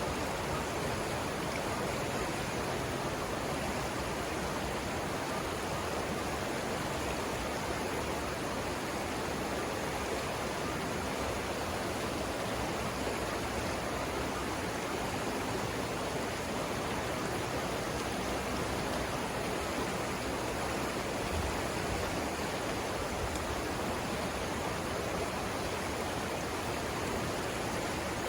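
The Savannah River rushing steadily, a constant even roar of flowing water with no change.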